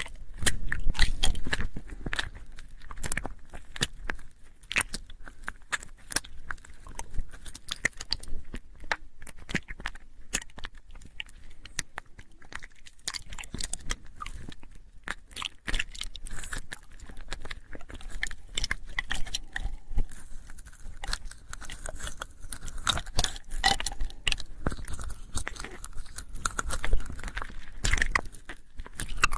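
ASMR mouth sounds: a dense, irregular run of clicks and smacks, loudest about a second in and again near the end.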